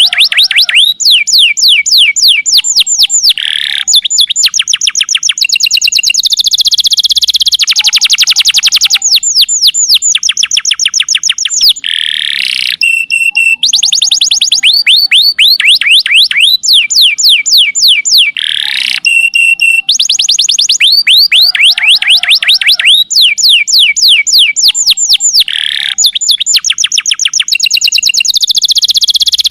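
Domestic canary singing a long unbroken song: fast trills of quickly repeated sweeping notes, switching to a new trill type every second or few, with a few short held whistles between.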